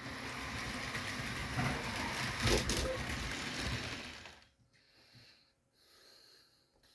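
Model train locomotives and cars running along the track, a steady mechanical rattle and rumble that dies away about four and a half seconds in.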